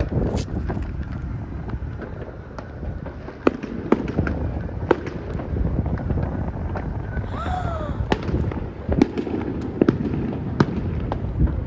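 Many fireworks going off across the area: a continuous rumble of bangs with frequent sharp cracks, a few of them louder. A short falling whistle sounds a little past halfway.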